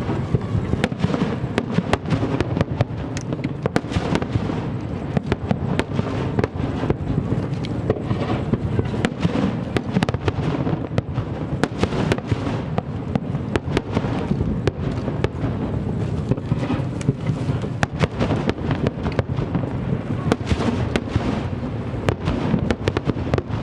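Fireworks display at full intensity: a dense, continuous barrage of shell bursts and sharp crackles over a steady low rumble, with no pause.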